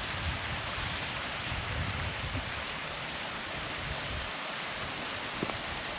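Steady rushing of a waterfall, with wind buffeting the microphone for the first four seconds or so.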